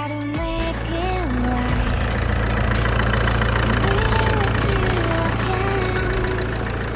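Fiat Stilo 1.9 JTD four-cylinder common-rail turbodiesel engine idling steadily.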